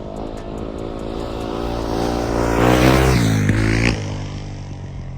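Yamaha YZ450F dirt bike's 450 cc single-cylinder four-stroke engine accelerating: the pitch climbs to its loudest about three seconds in, then falls away as the throttle comes off, running lower near the end.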